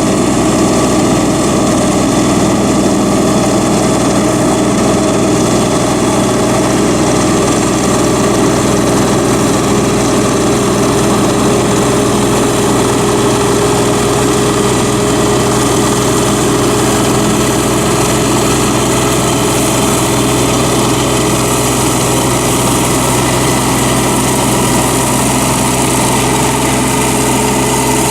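Solis 26 HP compact tractor's three-cylinder Mitsubishi diesel engine running steadily at a constant speed.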